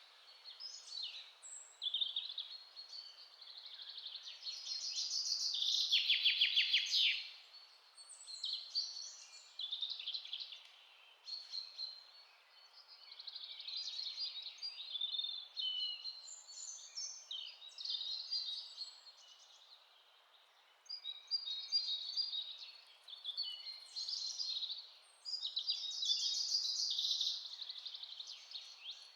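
Several birds singing and calling at once in a forest chorus: overlapping high chirps, whistles and trills in bouts with short lulls, including a fast rattling trill about six seconds in. A faint steady hiss lies beneath.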